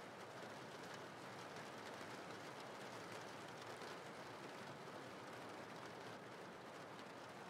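Faint, steady rain ambience: an even hiss with fine ticks of falling drops.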